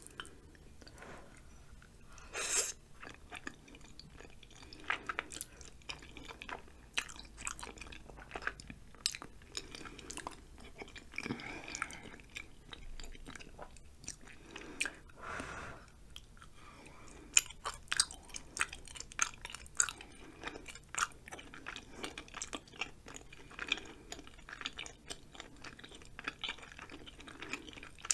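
Close-miked chewing of ramen noodles and chewy rice cakes: wet mouth smacks and clicks, with a few louder bites.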